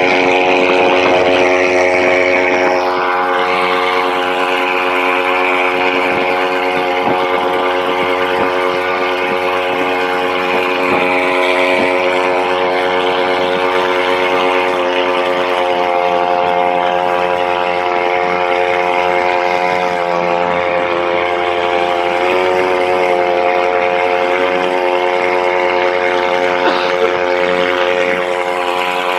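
Engine running at a steady speed, a loud, even humming whine with several steady tones that shift slightly in pitch a few seconds in and again about halfway.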